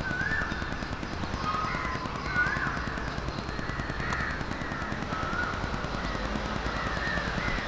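Birds calling: a run of short, arched calls repeated every half second or so, over a steady low background rumble.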